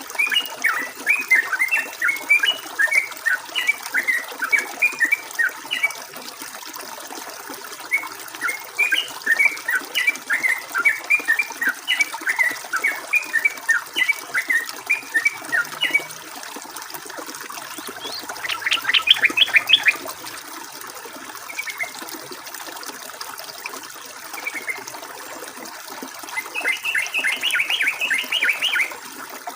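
Yellow-vented bulbul (trucukan) singing in long runs of quick chirpy notes, first for about six seconds and again from about eight to sixteen seconds. It then gives a short dense chattering burst around nineteen seconds and another near the end, over a steady hiss of flowing water.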